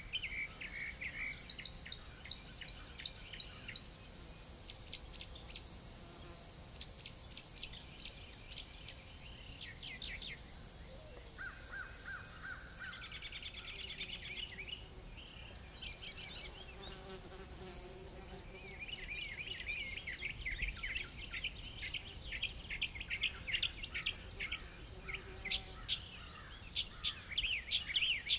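Garden nature ambience: an insect's steady high trill for about the first half, stopping about halfway through, with birds chirping throughout and a busier run of rapid bird chirps in the second half.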